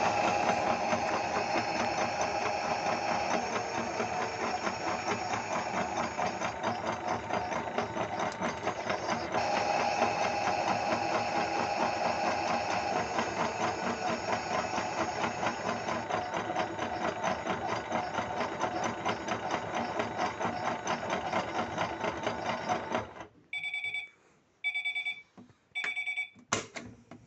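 Toy Miele W1 washing machine's small motor running a spin: a steady, fast buzzing rattle that stops about 23 seconds in. Three short beeps about a second apart follow, then a click.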